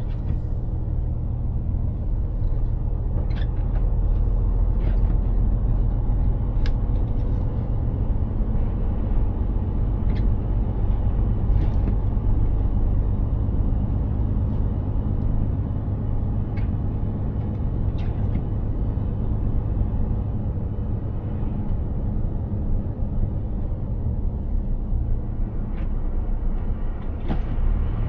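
Mercedes-Benz Actros 2763 heavy truck driving at steady speed: a continuous low engine and road rumble, with light clicks every few seconds.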